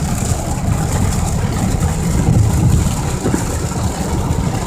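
Car driving on a rain-soaked freeway, heard from inside the cabin: a steady low road and engine rumble with an even hiss of tyre spray and rain.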